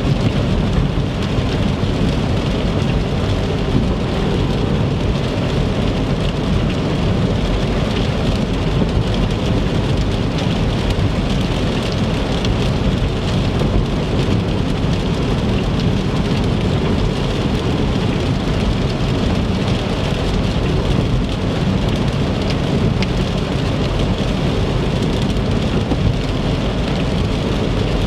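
Rain hitting a car driving on the interstate, with a steady low road and tyre rumble under the patter of drops.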